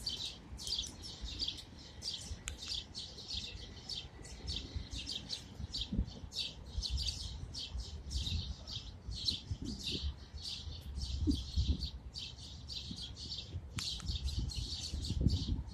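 A flock of a dozen or so birds chirping without pause, many short high calls overlapping in a rapid chatter, with an intermittent low rumble underneath.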